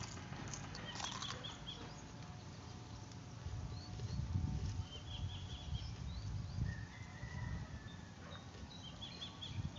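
A crunchy bite into a raw bitter gourd (ampalaya) about a second in, followed by chewing. Faint bird chirps are heard in the background.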